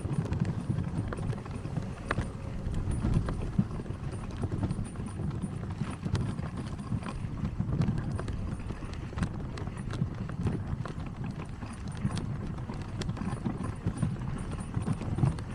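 Animal-drawn sled moving over snow: a steady, irregular patter of quick footfalls with sled and runner noise and scattered sharp clicks.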